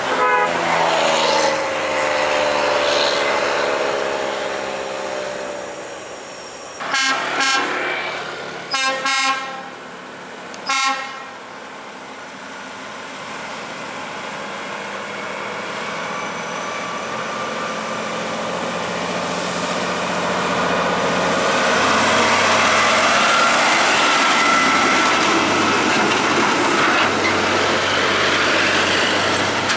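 Heavy truck engine running under load, with five short air-horn blasts about seven to eleven seconds in; afterwards the engine grows louder, with a rising whine.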